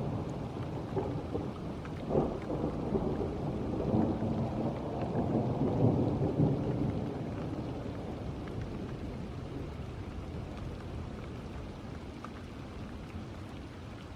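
Rolling thunder rumbling over steady rain, swelling several times in the first half and fading away over the last several seconds.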